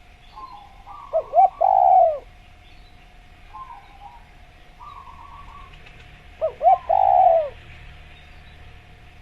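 Spotted dove (tekukur) cooing twice, each phrase two short coos followed by a longer falling one. Softer chirping calls come in between.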